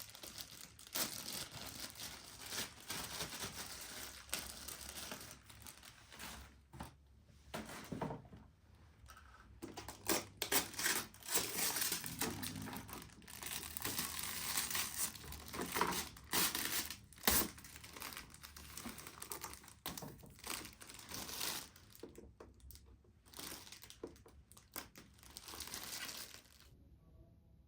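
Packaging being crumpled and torn by hand, in irregular crinkling bursts that stop suddenly shortly before the end.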